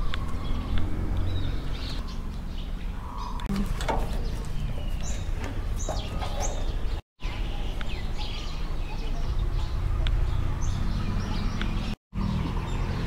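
Birds chirping and calling on and off over a steady low outdoor rumble. The sound drops out briefly twice, at edit cuts.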